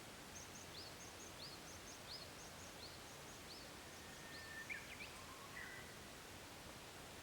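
Faint wild songbirds in mountain woodland: one bird repeats a short, high, quick phrase about every two-thirds of a second, and a lower drawn-out whistle with a couple of notes comes in around the middle, all over a steady soft hiss.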